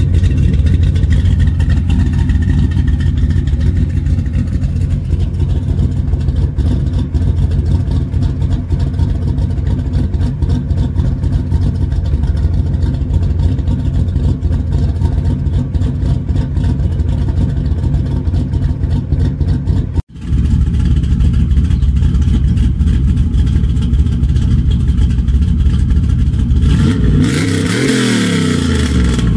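A 1995 Pontiac Trans Am's V8 engine running steadily, with its sound cutting out for an instant about twenty seconds in. Near the end its pitch dips and then rises again.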